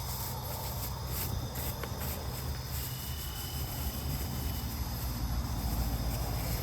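Steady chorus of crickets or other insects, with a faint thin whine joining about three seconds in, over a steady low rumble.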